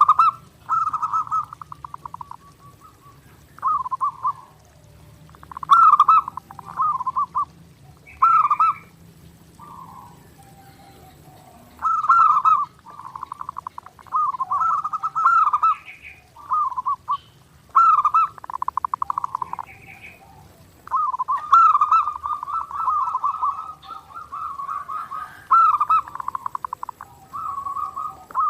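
Zebra dove (perkutut) cooing nonstop and clearly: short phrases of rapid, trilling coos follow one another with brief pauses between them.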